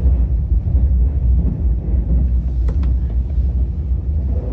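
KTX high-speed train running, heard from inside the passenger cabin as a steady low rumble, with one brief click a little past the middle.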